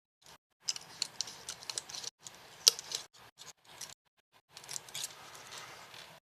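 Irregular clicks and short rattles of small hard objects being handled, with brief pauses between bursts.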